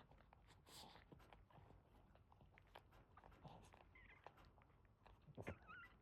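Faint high squeaks of newborn Boston Terrier puppies, once about two-thirds through and again near the end, over soft wet clicking.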